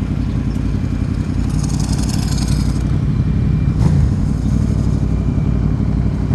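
Yamaha WR450 supermoto's single-cylinder four-stroke engine running steadily under way, with a short hiss about a second and a half in and a brief knock about four seconds in.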